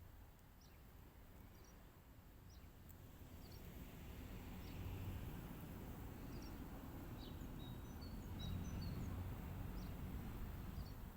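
Small birds chirping, short high chirps about once a second with a few whistled notes in the second half, over a low background rumble that swells partway through.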